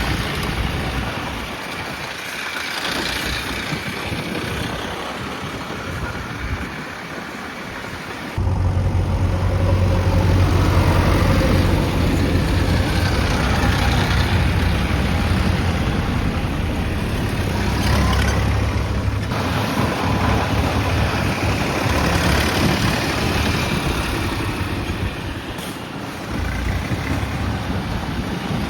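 Heavy diesel engines running, with a sudden jump to a much louder, deep engine rumble about eight seconds in.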